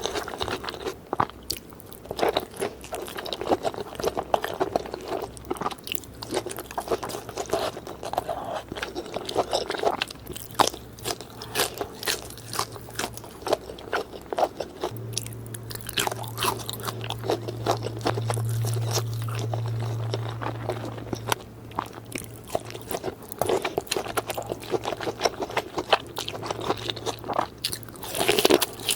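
Close-up eating: repeated crunchy bites and chewing of spicy cheesy Jamaican chicken, in irregular crisp crunches. A low steady hum runs underneath from a few seconds in, strongest around the middle.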